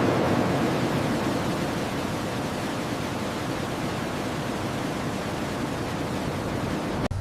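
A steady, loud rushing noise with no pitch or rhythm, like a roar of air. It eases slightly and cuts off suddenly near the end.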